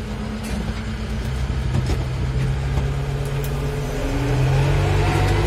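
Farmtrac 675DT tractor's diesel engine pulling a two-furrow plough through hard, wet soil, running steadily and then rising in pitch and loudness over the last second and a half.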